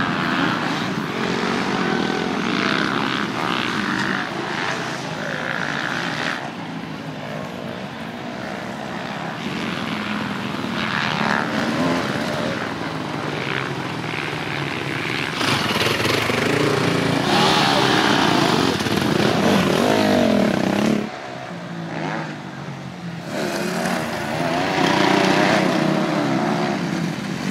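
Motocross bikes racing, their engines revving up and falling back over and over, with a brief dip in the engine noise about three-quarters of the way through.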